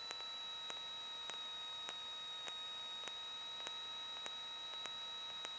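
Faint electrical hiss with a steady high-pitched whine and a soft tick about every 0.6 s, noise on the aircraft's recorded intercom/radio audio feed between transmissions.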